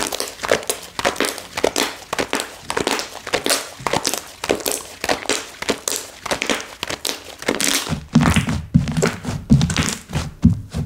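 Slime being worked by hand, giving a dense run of crackling clicks and pops; from about eight seconds in, low soft thuds join in as it is pressed and folded.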